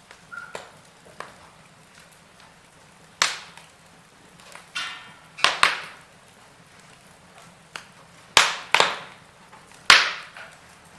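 Wood fire burning in a fireplace, crackling: about half a dozen loud sharp pops, some in quick pairs, between fainter ticks.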